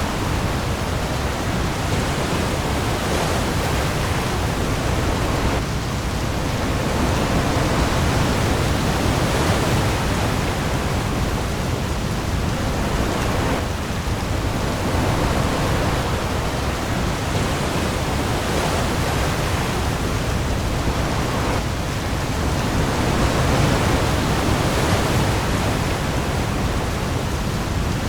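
Heavy rain and sea-storm ambience: a dense, steady hiss of rainfall with a low rumble underneath, swelling gently now and then.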